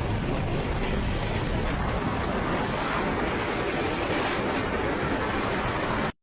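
Steady rush of airflow over a glider at about 130–140 km/h, with no engine tone; it cuts off suddenly near the end.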